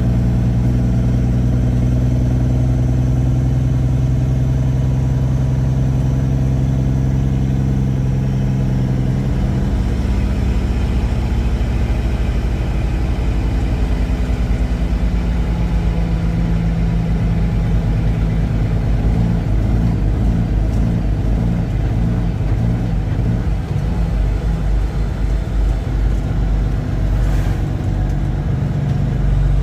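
Semi truck's diesel engine running under way, a steady low drone whose note shifts about nine seconds in and turns more uneven in the second half.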